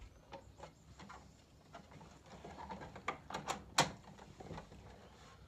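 Scattered light clicks and knocks of small parts being handled, with a quick run of sharper clicks about three to four seconds in.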